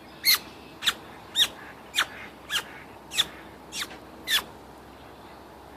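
Small bird chirping repeatedly, short sharp chirps that each slide down in pitch, about two a second, stopping a little over four seconds in.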